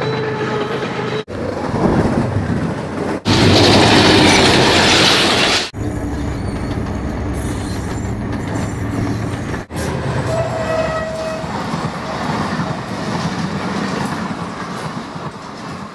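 Diesel locomotives and passenger coaches passing at close range in a string of short clips, engines running and wheels rolling on rails, the sound cutting off abruptly between clips. The loudest clip is a rushing stretch about a third of the way in, and short horn tones sound at the start and again past the middle.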